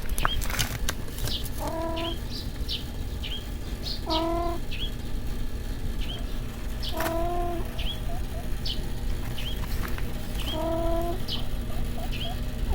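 An animal gives four short calls of steady pitch, roughly every three seconds. Between them, small birds chirp rapidly in brief, high, falling notes.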